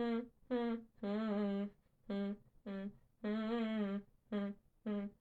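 A single voice humming a wordless tune, unaccompanied, in separate notes: two short and one long, twice over, then two more short ones. The long notes carry a slight waver.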